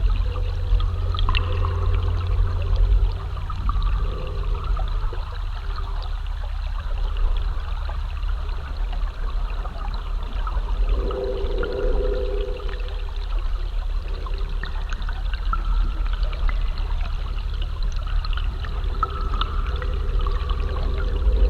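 Flowing, trickling water recorded through a hydrophone and processed into an ambient soundscape: a steady low rumble under a wash of small bubbling ticks, with faint humming tones that swell and fade, most strongly about halfway through and near the end.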